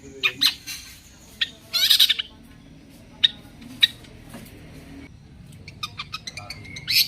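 Long-tailed shrike (cendet) calling. Sharp single chips are broken by a harsh, buzzy chatter about two seconds in, and a quick run of short notes comes near the end.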